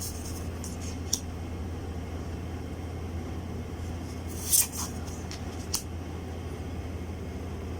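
Oracle cards being handled during a flip-through: a few brief crisp card sounds, the loudest about four and a half seconds in, over a steady low hum.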